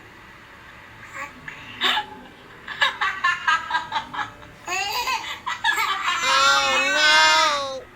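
A baby laughing and squealing in short high-pitched bursts, building to a long, wavering squeal near the end.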